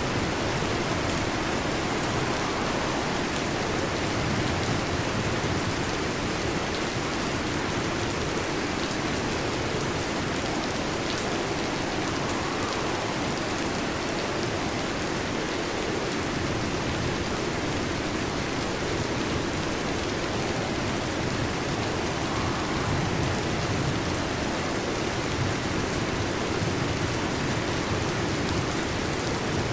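Heavy rain falling steadily on a metal roof, an even, unbroken patter.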